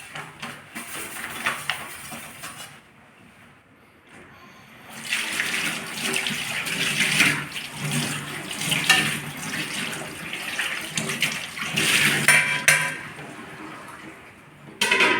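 Tap water running into a sink while pots are washed, with scattered clatters of the pots. It quietens for a second or so, then runs louder again.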